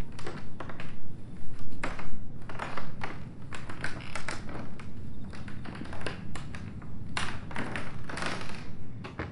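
Footsteps climbing a staircase: an irregular run of taps and thuds, several a second.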